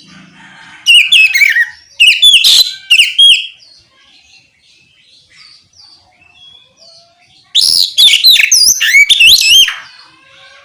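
Oriental magpie-robin singing loud, clear whistled song in two bursts of rapid up-and-down phrases, one starting about a second in and lasting about two and a half seconds, the other in the second half lasting about two seconds. Faint softer chirping fills the gaps.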